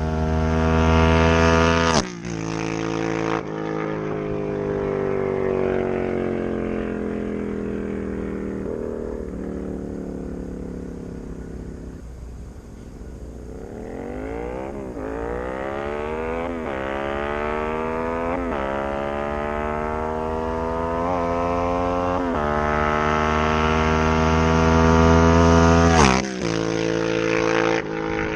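Yamaha MT-07's parallel-twin engine through a Black Widow exhaust with no dB killer, making flybys. It passes loud at the start, and its note falls and fades as it pulls away. It then comes back accelerating hard through about five gear changes, each a rising note that drops at the shift, and passes loud again near the end.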